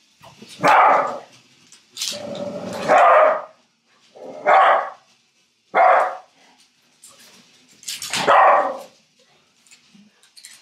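A dog barking, about six loud barks at uneven intervals, excited by a robot toy bird.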